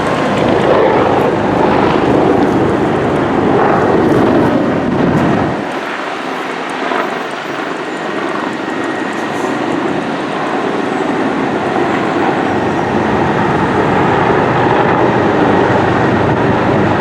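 Fire engine running under way on a code 3 response, a loud steady rush of engine and road noise whose deep rumble drops away about five and a half seconds in.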